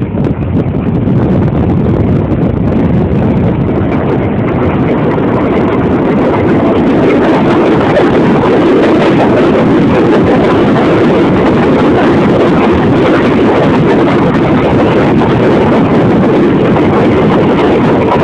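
New York City subway R160 train entering a station on the elevated J line: a loud, continuous rumble and rattle of wheels on the rails that grows louder about six seconds in and then holds steady.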